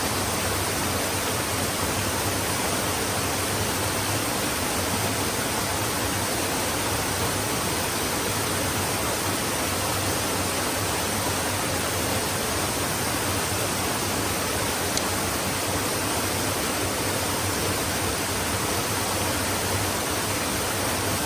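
Stream water rushing and splashing over rocks in a steady, unbroken wash of noise.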